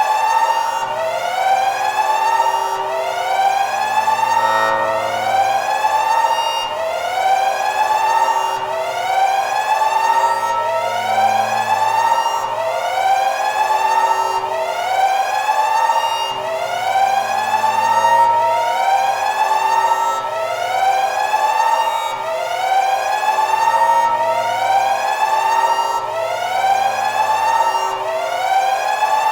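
Electronic siren wailing: a pitch that sweeps up and back down about once a second, repeating evenly.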